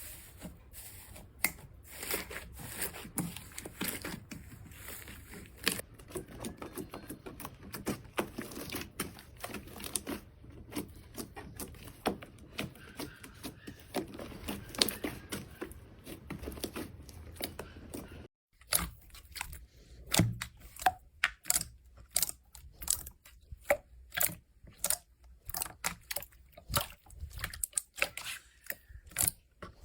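Slime being squeezed, stretched and poked by hand close to the microphone, with dense sticky crackling and small pops. About eighteen seconds in it changes to a run of sharp separate clicks and pops, two or three a second.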